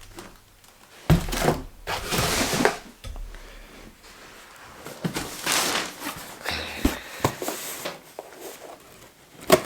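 Cardboard delivery boxes being handled and opened: a thunk about a second in, then bursts of scraping and rustling, with another sharp knock near the end.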